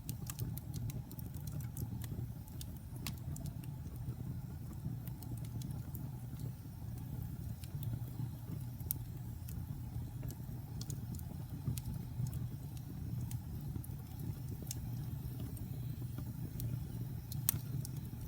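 Wood burning in a fireplace: a steady low rumble of flames with scattered sharp crackles and pops from the burning logs, one louder pop near the end.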